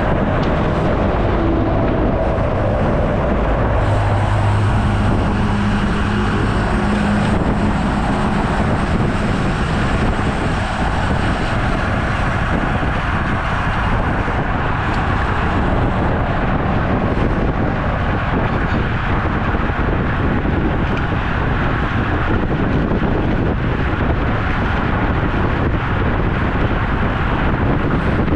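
Steady wind rush over the microphone of a camera riding on a road bike, mixed with road and traffic noise. From about four seconds in, a low engine hum stands out for a few seconds, as of a vehicle going by.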